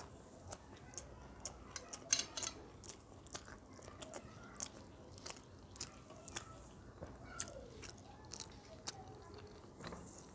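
Close-miked eating of chicken curry with rice: chewing and biting, heard as an irregular string of sharp wet clicks and small crunches, the loudest about two seconds in.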